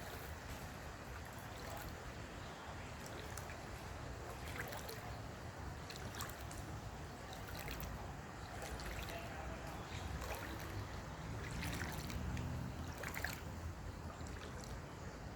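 Water moving, with scattered small splashes and a steady low rumble underneath.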